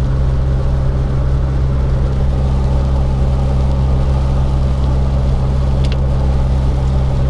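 Motor vehicle engine running at a steady speed, a constant low droning hum with no change in pitch. A couple of faint ticks come about six seconds in.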